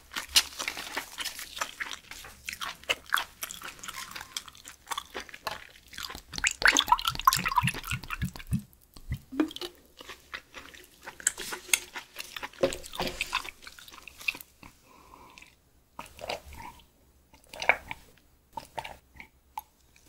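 Close-miked mouth sounds of chewing raw beef skirt, with wet clicks and smacks. Around the middle, makgeolli glugs from a bottle into a glass.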